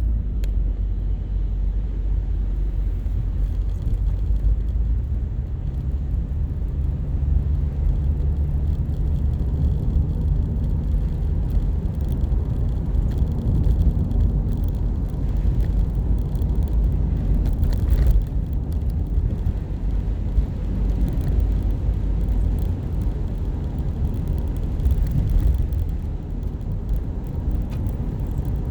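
A car driving along, with a steady low rumble of engine and road noise. There is one short click about two-thirds of the way through.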